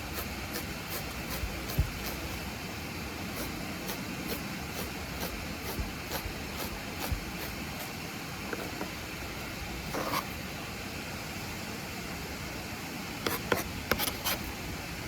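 Kitchen knife chopping vegetables on a cutting board: a run of sharp taps about two a second, with a few quicker clusters near the end. Under it runs the steady rushing hiss of a waterfall.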